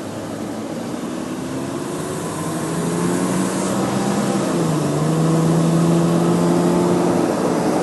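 1993 Toyota 4Runner's swapped 3.4-litre V6 with headers pulling away from a stop, rising in pitch and getting louder as it accelerates. The pitch drops once about halfway through, as at a gear change, then holds steady.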